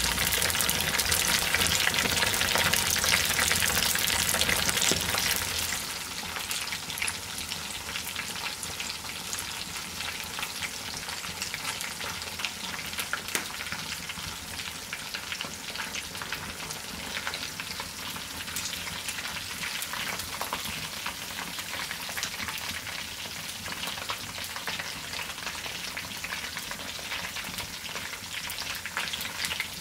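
Chicken legs frying in bubbling lard in a cast-iron skillet: a dense sizzle and crackle, loudest for the first five or six seconds, then settling to a quieter, steady sizzle with scattered pops.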